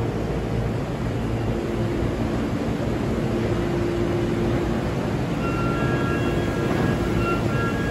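Steady hum and drone of a commuter train standing at a station platform, its onboard equipment running. From about five seconds in, a high tone sounds on and off over it.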